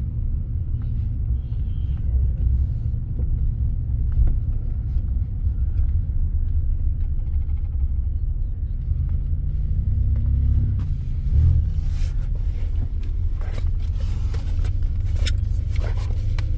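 Steady low rumble of a car driving, heard from inside the cabin, with a few faint clicks in the second half.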